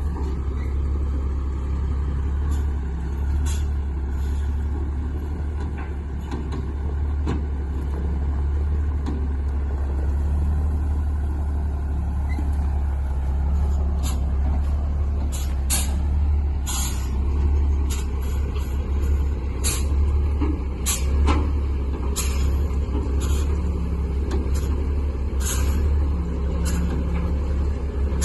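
Heavy plow truck's engine running steadily with a deep drone, with frequent sharp clanks and rattles in the second half.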